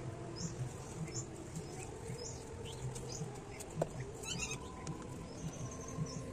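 Small birds chirping: short, high chirps repeating every half second or so over faint background music. One sharp click comes a little over halfway through.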